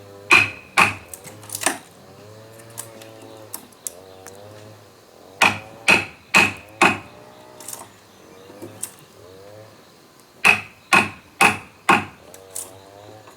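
Hammer blows with a short ring, in three bursts of about four strikes each, roughly half a second apart.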